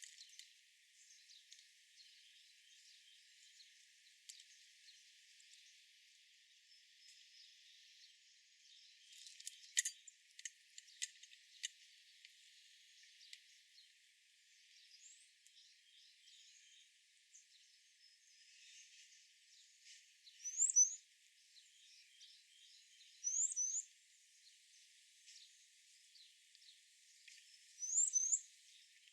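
Outdoor birdsong: many faint chirps from wild birds, with a quick run of sharp ticks about ten seconds in and three louder short double chirps, each rising in pitch, a few seconds apart near the end. The sound is thin, with no low end at all.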